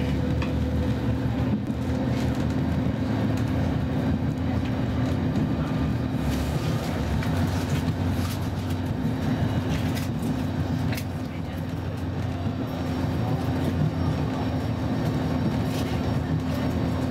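Interior running noise of a Roslagsbanan X10p electric multiple unit under way: a steady rumble of wheels on rail with a constant electric hum and a few sharp clicks.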